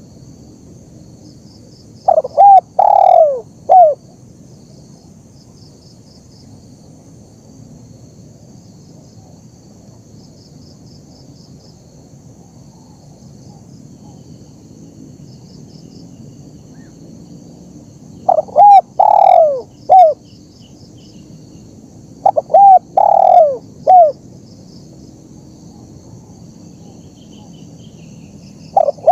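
Spotted dove (tekukur) cooing: three loud phrases, the first near the start and the other two close together past the middle, with a fourth beginning at the very end. Each phrase is a short note, a longer falling coo and a short final note.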